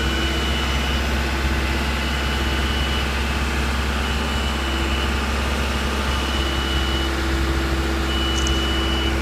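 Heavy recovery truck's diesel engine idling steadily while its warning beeper sounds a high single-tone beep, about one second on and one second off, repeating throughout.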